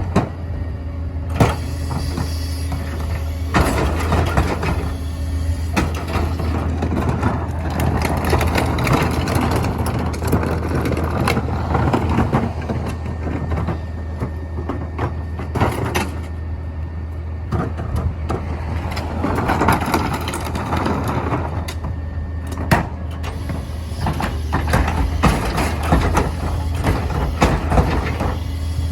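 Mini garbage truck running, its engine a steady low hum, with repeated knocks and clatter from the truck and its load.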